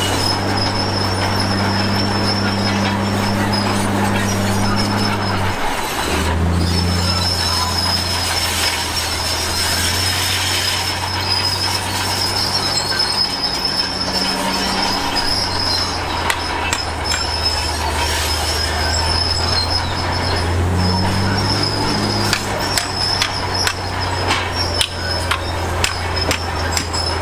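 Komatsu D53P bulldozer working: the diesel engine runs steadily, its note dropping and shifting with the load about six seconds in and again near the end, over a thin, steady, high squeal from the steel tracks. Sharp knocks and clanks come quickly in the last few seconds.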